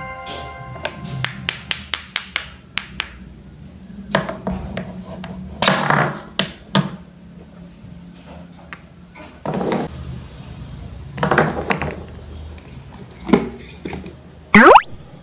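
Wooden toy fruit and vegetables being cut with a toy knife: a quick run of sharp taps and clicks of wood on wood in the first few seconds, then several short rasping noises as pieces are cut and pulled apart. A quick rising sweep sounds near the end.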